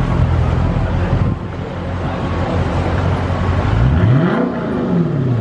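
2021 Dodge Challenger Scat Pack's 392 HEMI V8 running through an exhaust with the mid-mufflers deleted and the rear resonators kept. A deep, steady idle settles a little about a second in, and a single throttle blip near the end rises and falls back.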